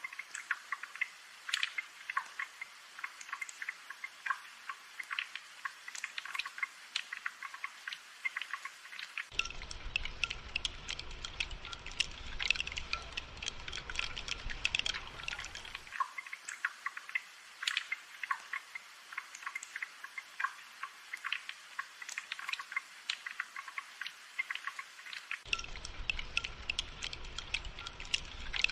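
Steady rainfall: a dense, irregular patter of drops. A low rumble underneath cuts in and out abruptly a few times.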